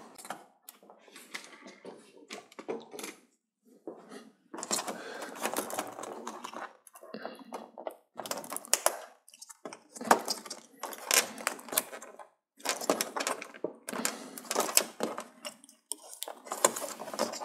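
Small hard plastic and metal parts of a TV's LED backlight being handled, clattering, clicking and scraping in repeated bursts of a second or two with short pauses.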